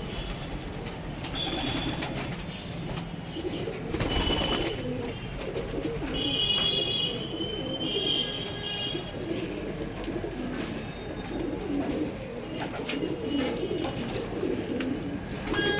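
Saharanpuri pigeons cooing, low throaty coos repeating one after another, with a brief sharp clatter about four seconds in.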